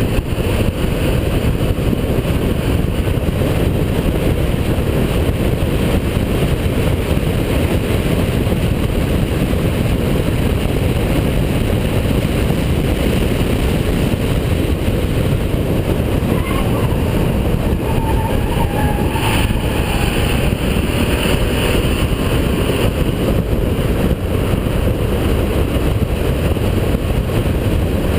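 Holden VP Commodore's 3.8-litre V6 running at speed, a steady loud rumble mixed with road and wind noise.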